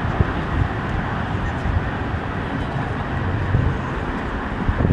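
Steady low vehicle rumble with an even wash of noise, with no distinct events standing out.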